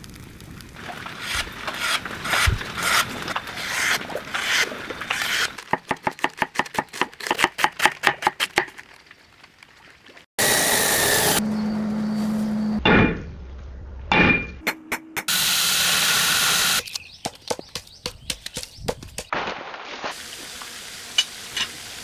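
Knife-making workshop sounds: a run of strokes on the blade, quickening to about five a second, then several short bursts of steady hissing noise that start and stop abruptly.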